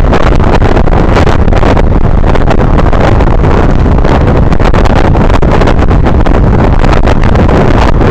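Loud, steady wind buffeting on the microphone of a moving Honda Navi mini motorcycle, with its small single-cylinder engine running underneath.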